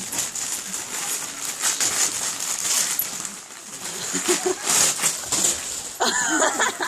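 Wrapping paper rustling and tearing in irregular rips as layers are pulled off a present. Near the end comes a short, wavering high-pitched cry.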